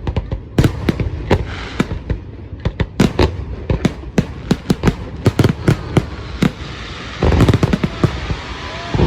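Fireworks display: a string of sharp, irregular bangs from aerial shells, with a dense rapid volley of crackling reports about seven seconds in.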